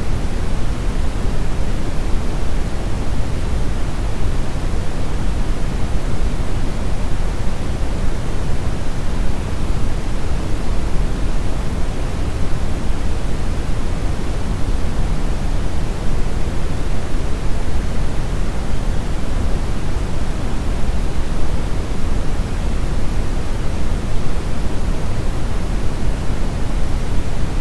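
Brown noise: a steady, deep rushing hiss, strongest in the low end, with no changes.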